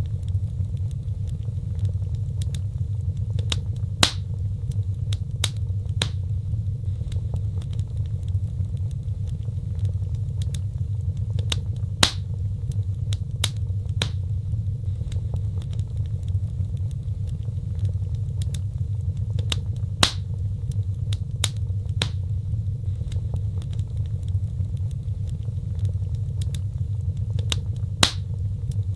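Fireplace fire burning: a steady low rumble with sharp crackles and pops every second or two. The loudest pops come at an even eight-second spacing, as in a looped recording.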